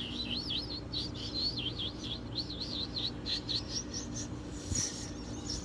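A small bird chirping in a fast, continuous run of high warbling notes that breaks off about four seconds in, followed by a few higher chirps near the end. A steady low hum sits underneath.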